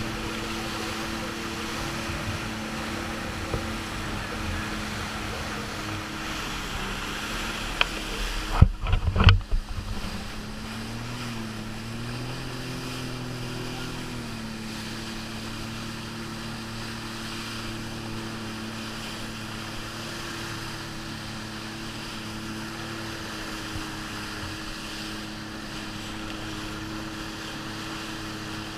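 Jet ski engine running steadily, its pitch wavering slightly with the throttle, with a few sharp thumps about eight to nine seconds in.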